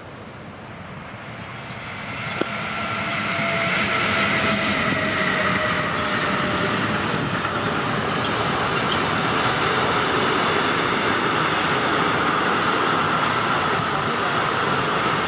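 Electric-hauled container freight train passing close by: the sound builds over the first few seconds as the locomotive comes by, then the steady rolling noise of the loaded container wagons, with high steady ringing tones from the wheels over it. A single sharp click about two and a half seconds in.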